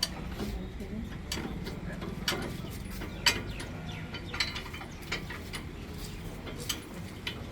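Irregular sharp metallic clicks and clinks of hand tools working on the tractor's bolts and bumper fittings, over a steady low hum.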